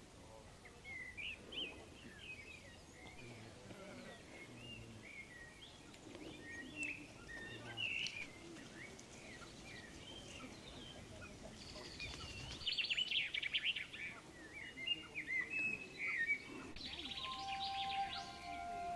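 Small songbirds chirping and twittering in many short calls, with fast trills about twelve seconds in and again near the end. Soft, sustained musical tones come in near the end.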